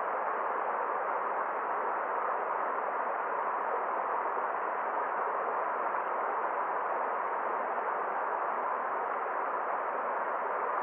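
A forest stream's water rushing steadily, with no change in level or pitch.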